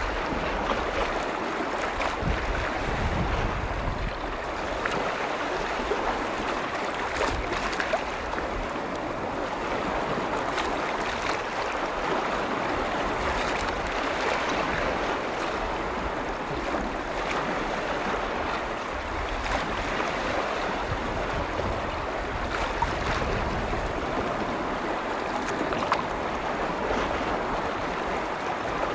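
Lake waves washing and lapping against the shore in a steady wash with small splashes. Wind rumbles on the microphone in the first few seconds.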